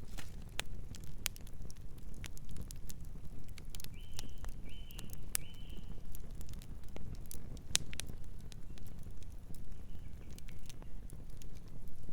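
Campfire crackling, with irregular sharp pops and snaps over a low steady rumble of burning wood. Three short high chirps come in quick succession about four seconds in.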